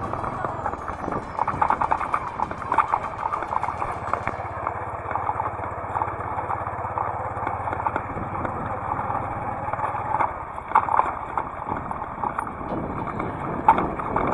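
Motorcycle running along a road, heard from the bike: a steady low engine hum under uneven knocking and rushing noise. The hum drops away about ten seconds in.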